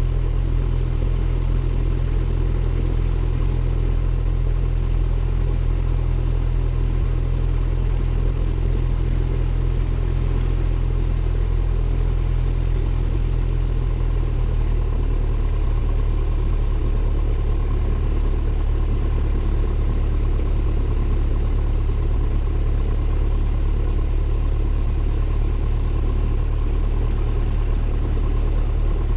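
Cessna 172N's four-cylinder piston engine and propeller running steadily, heard inside the cockpit as a loud, even drone. About halfway through the pitch drops slightly, as the engine speed eases back a little.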